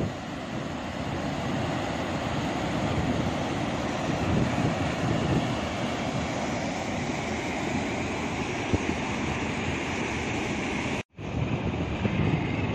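Steady rush of fast-flowing floodwater with wind buffeting the microphone. The sound drops out for a moment near the end.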